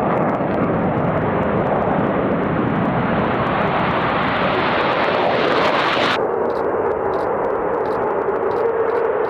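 Military jet aircraft taking off, a loud steady engine roar. About six seconds in the sound changes suddenly: the high hiss drops away and a steadier drone remains.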